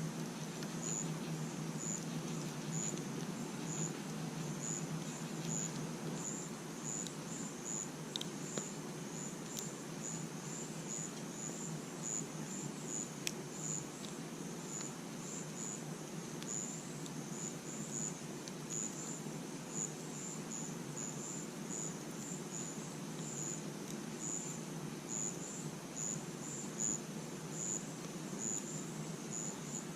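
Crickets chirping steadily in a run of short, high chirps, over the low, steady rush of a campfire with a few faint pops.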